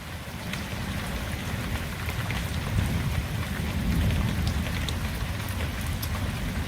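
Heavy rain falling steadily, with scattered drop ticks. A low rumble swells slightly about three to four seconds in.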